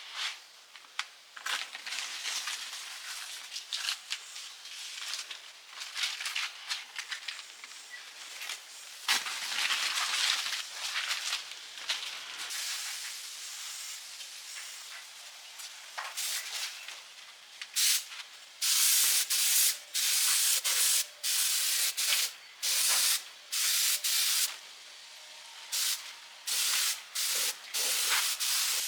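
Pressurised spray hissing, irregular and softer at first, then from about 18 seconds in in a run of loud bursts of about a second each that start and stop sharply, as a trigger is pulled and released.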